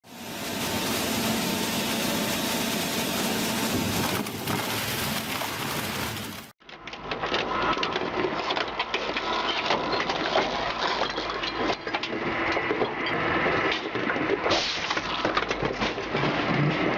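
Heavy machinery at work: about six seconds of steady machine noise, then a sudden cut to machinery running with many sharp cracks and crunches.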